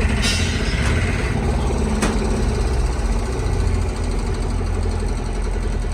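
A diesel engine running steadily at idle, with a deep, even rumble. A sharp click comes about two seconds in.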